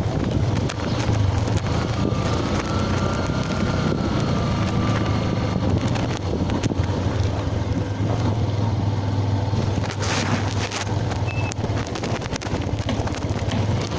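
Yamaha FZ-S motorcycle's single-cylinder engine running steadily on the move, with wind buffeting the microphone. A brief rush of noise comes about ten seconds in.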